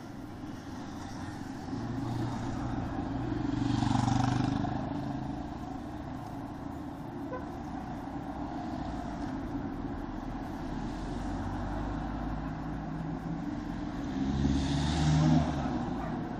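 Yamaha XTZ 125's single-cylinder engine running on the move amid road traffic, with two louder swells of passing-vehicle noise, about four seconds in and near the end.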